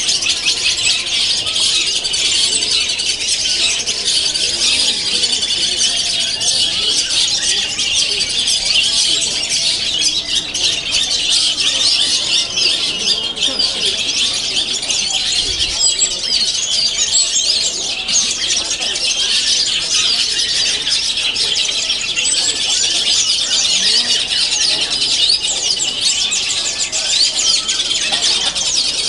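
Many caged long-tailed shrikes (cendet) singing at once at a bird-song contest: a dense, unbroken stream of rapid, shrill chirps and squeaky calls.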